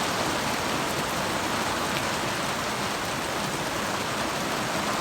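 Heavy rain falling steadily, an even hiss with faint drop ticks.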